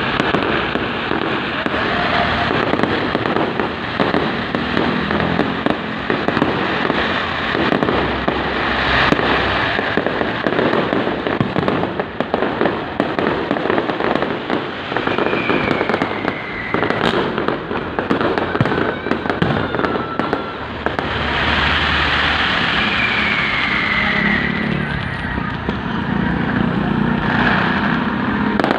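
Fireworks display going off without a break: a dense, continuous barrage of bangs and crackling.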